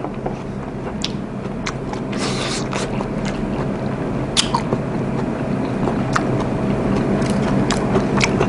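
A person chewing a mouthful of steamed ray close to a clip-on microphone, with a few small clicks along the way.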